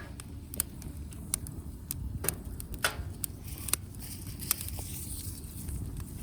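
Firewood burning in a fire pit grill, crackling with irregular sharp pops over a low steady rumble.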